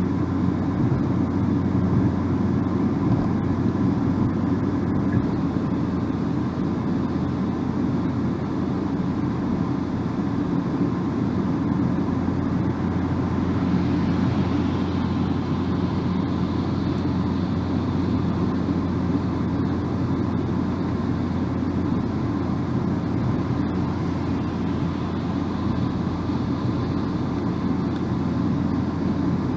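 Steady road and tyre noise of a car driving at a constant speed, with a low engine hum underneath. A higher hiss joins about halfway through and stays.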